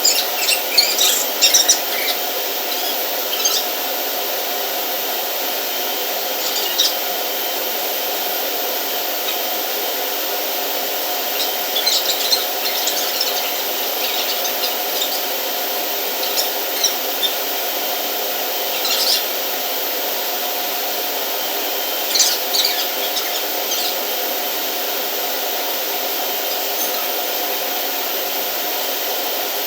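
Steady machinery drone with several short clusters of metallic clicks and scrapes from tools being handled, the busiest near the start and around the middle.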